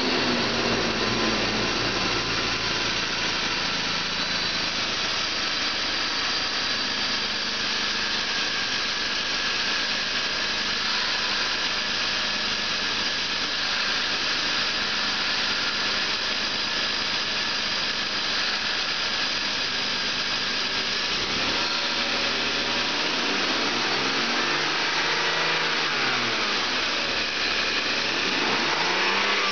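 BMW 528i wagon engine running under test, steady at first, then revved up and let back down twice in the last several seconds.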